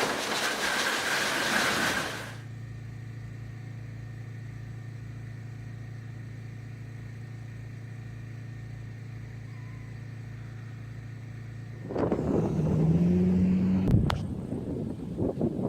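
Wind on the microphone for about two seconds, then a vehicle engine running with a steady low hum. About twelve seconds in, the engine rises in pitch as the vehicle accelerates, with a sharp click a couple of seconds later.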